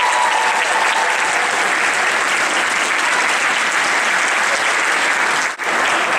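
Crowd applauding steadily, a dense clapping with no music, with a brief drop-out about five and a half seconds in.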